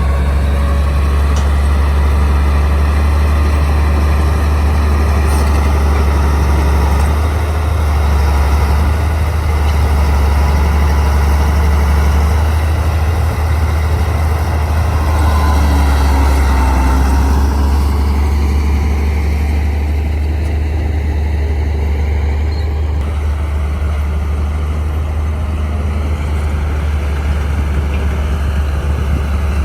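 Crawler bulldozer's heavy diesel engine running steadily, with a strong low hum and the sound of the machine working; the higher part of the sound eases for a few seconds a little past the middle.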